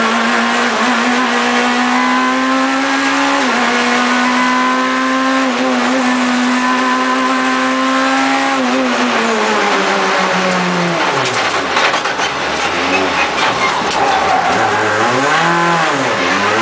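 Proton Super 2000 rally car's naturally aspirated 2.0-litre four-cylinder engine at high revs, held near the top and pulling through a couple of quick gear changes. About nine seconds in the revs fall away, followed by several short rev blips rising and falling as the car brakes and downshifts.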